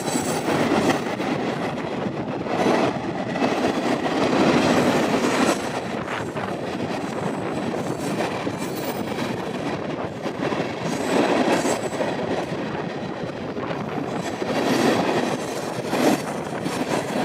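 Freight train cars rolling past: a continuous rumble and rattle of steel wheels on the rails, swelling louder every few seconds.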